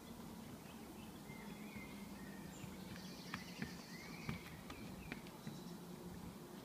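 Birds chirping over a steady low hum, with a few sharp knocks from about halfway through as a unicycle hops down onto concrete steps.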